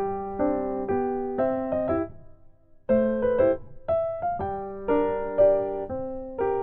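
Background music: an electric piano playing a gentle sequence of chords, each struck and left to die away, with a short pause about two seconds in.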